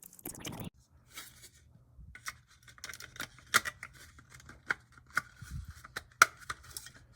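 Athearn Blue Box HO-scale F45 model locomotive running, its motor and gears giving a low, steady growl with irregular sharp clicks and rattles. The growl comes from the old Athearn's loose-fitting gears.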